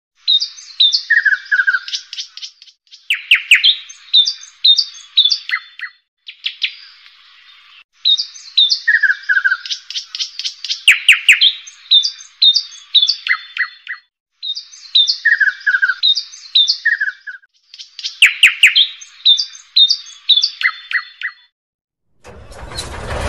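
Birdsong: small birds chirping and twittering in bursts a few seconds long with short gaps, all high-pitched with no low end, the same phrases coming round again as in a repeated recording. Near the end a steady rough mechanical noise starts.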